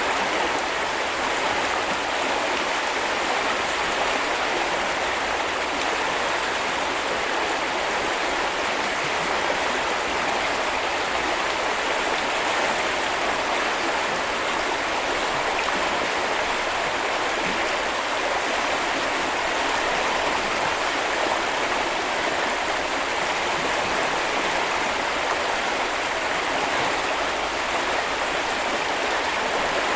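Steady rush and babble of a shallow river or brook flowing over stones, with no change throughout.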